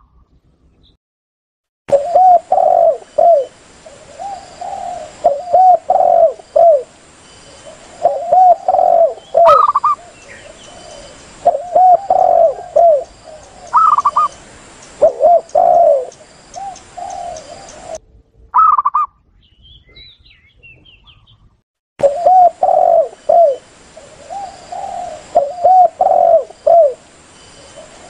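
Spotted doves and zebra doves cooing from a looped lure-call recording. Groups of low, repeated coos come with a few higher coos between them, broken by a short silence at the start and another past the middle.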